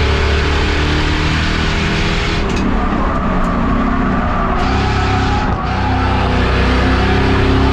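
Race car engine running hard at speed, with tyre and wind noise. The engine note dips twice, about two and a half and five and a half seconds in, then holds steady again.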